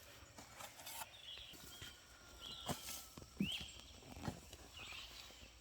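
A shovel working dry, firm garden soil: a few scattered soft thuds and scrapes as the blade goes in and dirt is turned.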